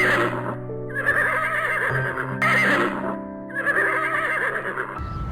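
A horse whinnying, several quivering calls in a row with short breaks between them, over background music with long held notes.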